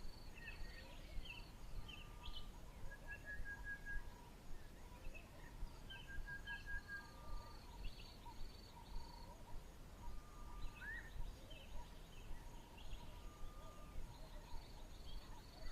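Several birds calling in the bush: short whistles, chirps and brief trills from different birds, with a run of high, evenly repeated notes coming and going, over a faint steady background hiss.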